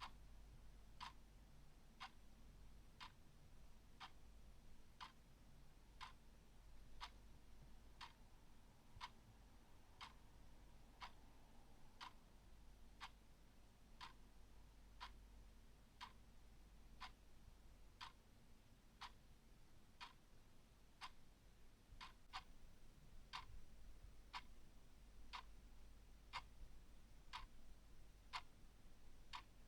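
Clock ticking faintly and steadily, about one tick a second.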